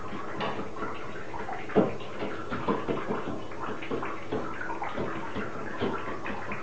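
A pet bird bathing in shallow water in a bathtub: a run of small, irregular splashes and flicks of water, with one sharper splash about two seconds in.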